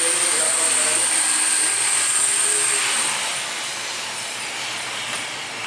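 Air conditioner blowing, a steady loud hiss with a thin high whine over it that fades about three seconds in.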